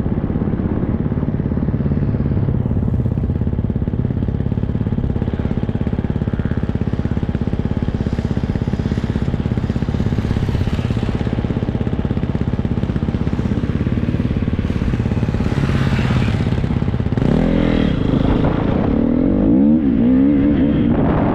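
Triumph 250 motocross bike's single-cylinder four-stroke engine running hard under way. In the last few seconds the revs rise and fall quickly several times.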